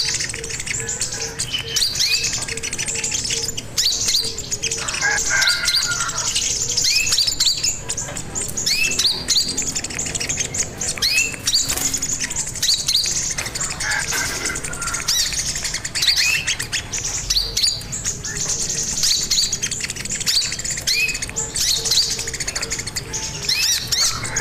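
Sogon (sogok ontong) songbird singing lively and non-stop: a rapid run of short rising chirps and high twittering, broken by a few lower warbled phrases.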